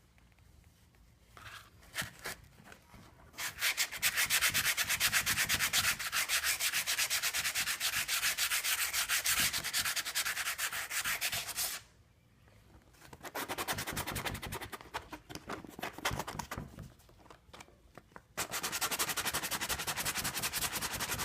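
Sanding the broken edges of a car bumper: three long spells of fast, rasping strokes, with short pauses between them.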